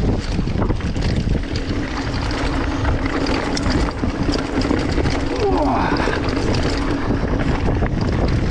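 Wind buffeting the microphone during a fast run down a ski slope, with a constant rushing scrape of snow. A steady low hum runs through most of it, and a short sweeping whine comes near the middle.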